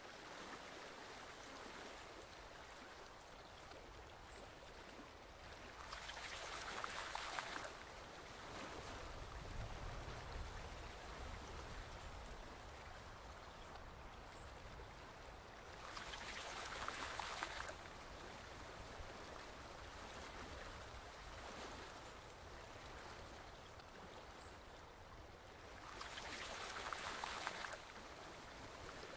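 Small forest stream flowing steadily, its rush of water swelling louder three times about ten seconds apart.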